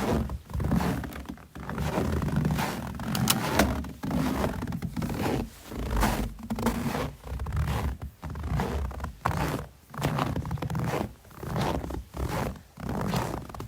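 Footsteps crunching in snow at an even walking pace, about one step a second.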